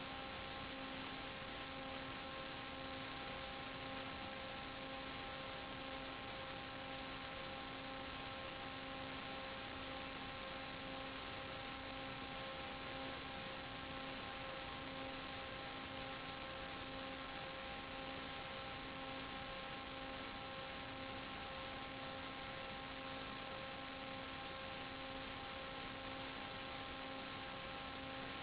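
Steady buzzing hum with a constant hiss, unchanging throughout, as heard on the audio channel of an analog 5.8 GHz FPV video downlink.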